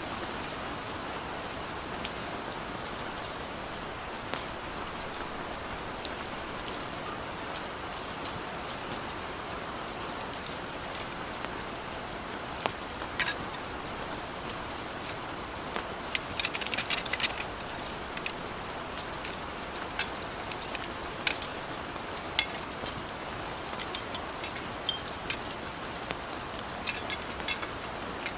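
Steady heavy rain falling, with scattered sharp ticks and clicks of drops or small knocks that grow more frequent in the second half, a dense cluster about two-thirds of the way through.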